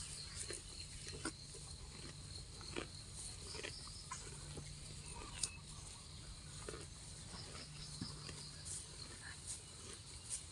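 Cow grazing, tearing grass and chewing with irregular soft snaps and crunches.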